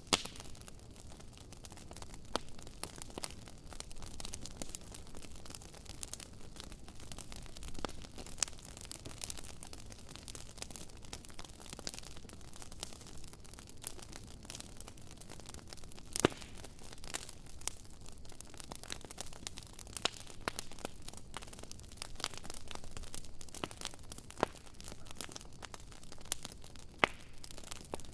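Wood campfire crackling: irregular sharp pops and snaps over a low, steady hiss and rumble, with a few louder snaps standing out.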